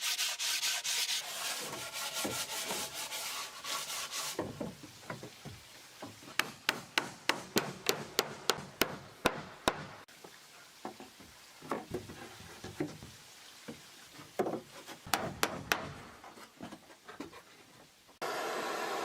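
Wood being sanded in quick, rhythmic strokes. About four seconds in this gives way to a run of sharp clicks, about three a second, then scattered lighter ticks. Near the end a steady hiss starts abruptly.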